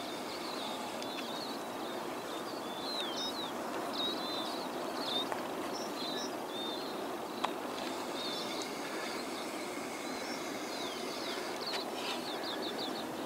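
Small birds chirping in short, quick calls over a steady rushing background, with one sharp click about seven seconds in.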